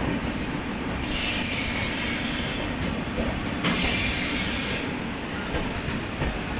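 Express train coach rolling slowly into a station on arrival: steady low rumble of the wheels, with two spells of high squealing, one about a second in and one past the middle.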